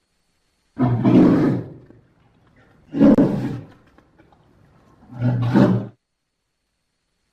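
Sound-effect calls of a Doedicurus, the extinct giant glyptodont: three deep, animal-like calls of about a second each, spaced about two seconds apart.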